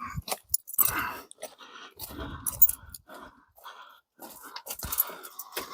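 Irregular clicks, crackles and rustling of hands handling and fitting a sealed-beam headlight and its mounting parts, in short uneven bursts with brief pauses.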